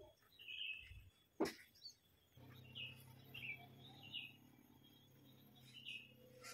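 Birds chirping faintly in short calls, with a single sharp click about a second and a half in and a low steady hum starting a little later.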